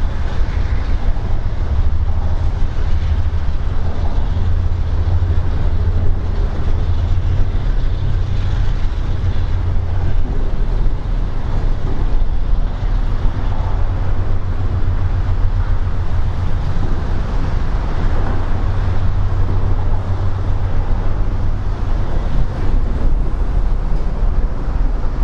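Diesel locomotive running with a steady, loud low rumble and a fast even throb, under a haze of rain and traffic noise.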